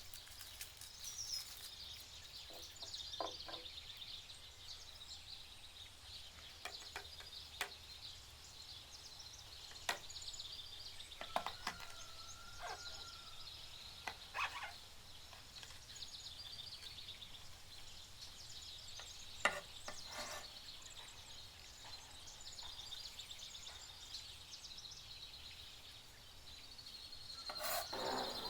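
Birds chirping and singing in the background, with scattered light knocks and clicks from handling food and utensils.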